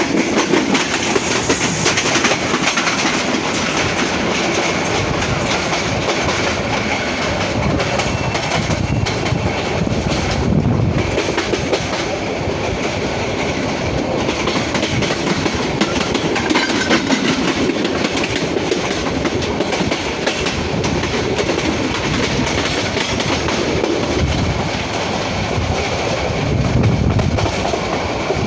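Passenger train running at speed, its wheels clattering over the rail joints with a steady rush of wind, heard from the side of a moving coach.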